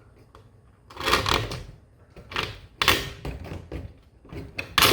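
Metal clinks and rattles as a screw is pulled out of and fed back through the holes of metal angle brackets on a garage door. They come in about four short bursts, the sharpest near the end.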